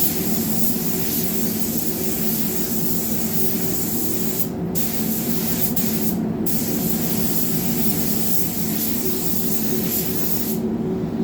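Paint spray gun hissing as basecoat is dusted over flattened spots at about 1.5 bar pressure, a light half coat. The hiss breaks off briefly twice around the middle and stops near the end, over a steady low hum.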